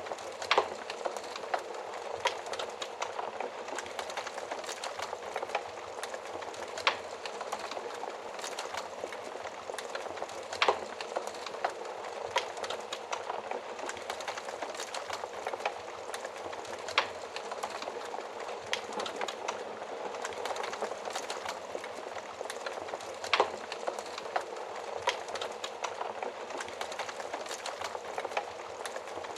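Wood fire crackling in a stove firebox: a steady hiss of small snaps with irregular louder pops, about half a dozen standing out.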